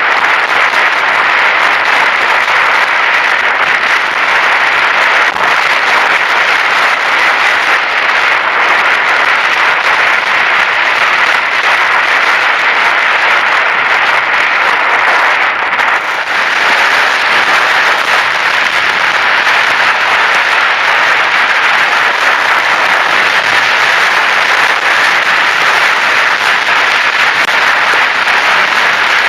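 Heavy rain: a loud, steady, dense hiss of drops.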